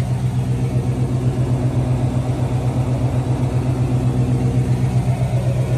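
Chevrolet 350 V8 idling steadily through Flowmaster mufflers, with an even pulsing exhaust note.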